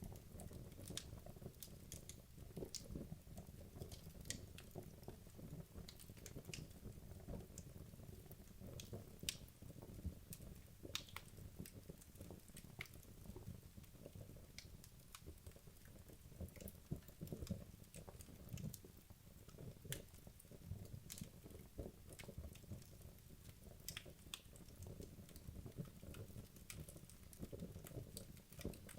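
Burning wood logs crackling in a fireplace: quiet, irregular sharp pops and snaps over a low steady rush of the fire.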